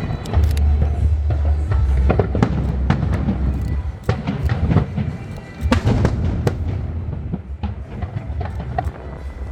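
A fireworks display: a rapid series of sharp bangs and crackles from shells bursting, over low booming, with music playing underneath.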